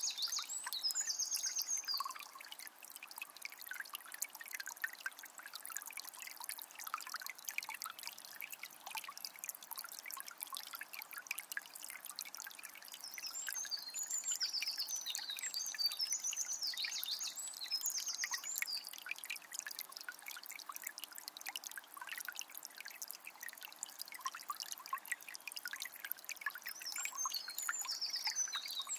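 A calm forest river trickling and splashing steadily, with a songbird singing short bright phrases in three bouts: at the start, in the middle, and near the end.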